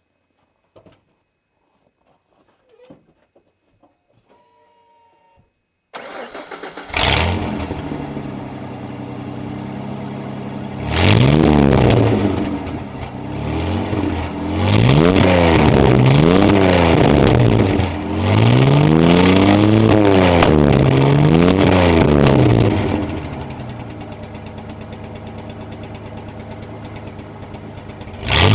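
1994 Ford F-150's 4.9-litre 300 straight-six, with a gutted catalytic converter and no muffler, cranks and catches about six seconds in after a few faint clicks, then idles loud through the open exhaust. It is revved up and down repeatedly in the middle, settles back to idle, and is blipped once more at the very end.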